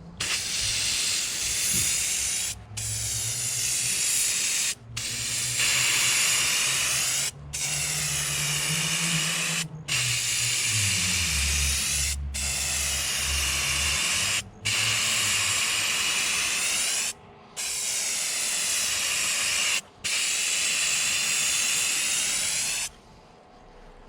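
Black truck bed coating being sprayed onto the boat's hull: a loud, steady spray hiss in about nine passes of two to two and a half seconds each, with brief breaks between them, stopping shortly before the end.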